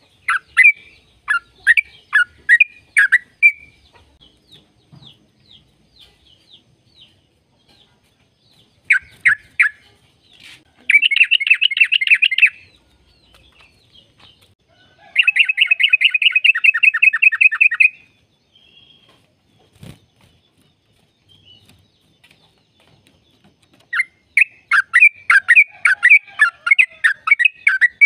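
Yellow-vented bulbul song: groups of quick bubbly notes, broken by gaps, with two fast rattling trills in the middle, one short and one about three seconds long.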